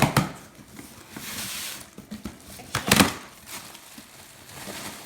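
Doll packaging crinkling and tearing as a box is opened, with a longer tearing rip a little over a second in and a sharp, loud rustle about three seconds in.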